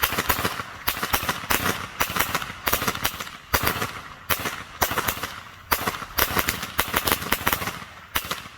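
A string of firecrackers going off in rapid, irregular bursts of sharp bangs for about eight seconds, stopping shortly before the end.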